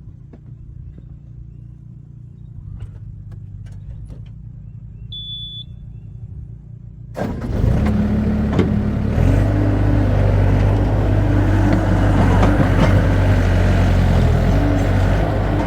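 Heavy equipment engine idling low, with a few clicks and a short high beep about five seconds in. About seven seconds in it is suddenly throttled up and runs loud and steady under load.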